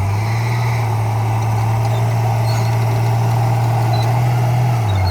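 Bulldozer's diesel engine running steadily, its low hum rising a little in pitch just after the start and dropping back near the end.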